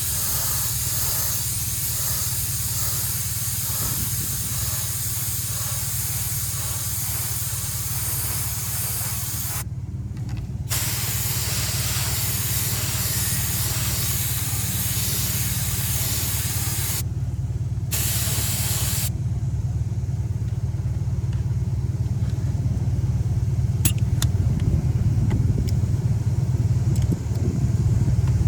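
Spray gun hissing in long passes, stopping briefly twice and ending about two-thirds of the way through, over a steady low machine hum.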